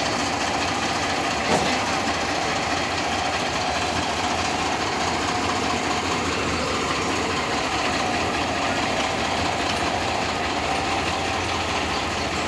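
An engine idling steadily, with one sharp click about a second and a half in.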